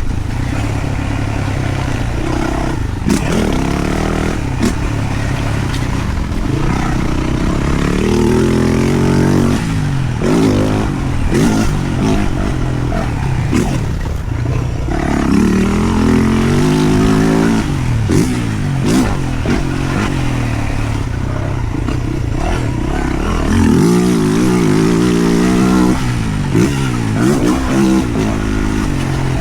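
Yamaha YZ450F single-cylinder four-stroke motocross engine being ridden hard, its pitch repeatedly climbing as it revs up and dropping off as the throttle closes.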